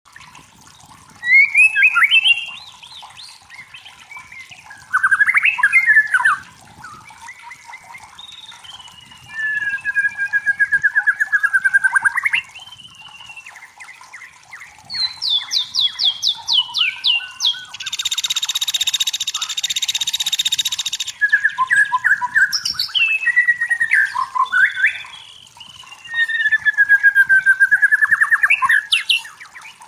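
White-rumped shama singing: loud, varied phrases of rapid trills, whistles and sliding slurred notes, separated by short pauses, with a harsh buzzing rasp lasting about three seconds a little past the middle.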